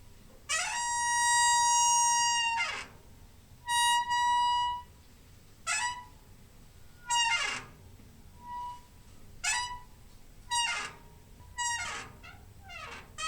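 Door hinge squeaking in a run of creaks. Early on there are two long squeaks held on one pitch, about two seconds and one second long. After that come shorter creaks that slide down in pitch, every second or so.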